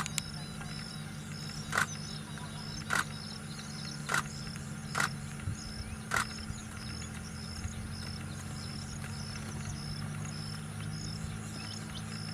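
A bird calls five times in a row, about a second apart, then stops. Under it run a steady low drone and a faint high chirp repeating about twice a second.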